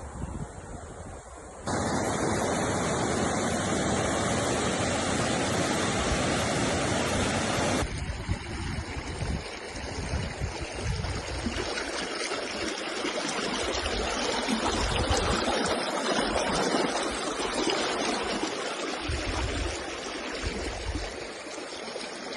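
Steady rushing noise of flowing water. It cuts in abruptly about two seconds in, changes sharply near eight seconds in, and then runs on more unevenly with low rumbling bumps.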